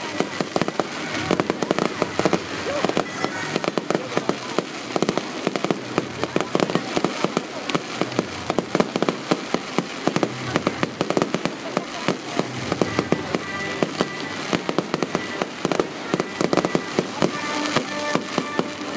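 Fireworks display: a dense run of rapid bangs and crackles, several reports a second. Music from the display's soundtrack plays underneath and comes through more clearly near the end.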